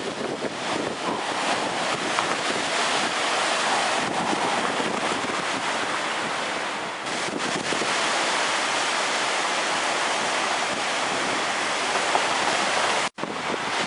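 Typhoon wind and rain: a steady, loud rushing hiss, with wind buffeting the microphone. The sound cuts out for a split second near the end.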